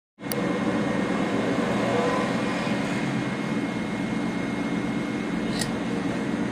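Steady mechanical hum with a thin, high whine running through it, starting suddenly just after the start, with a couple of faint ticks.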